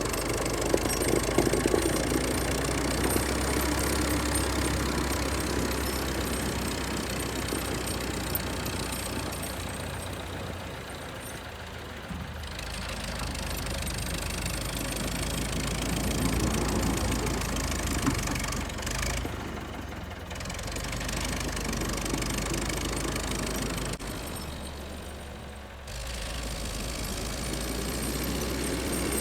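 Vintage Volvo tractor's engine running as it works clearing snow, its level swelling and easing a few times with a steady low hum underneath.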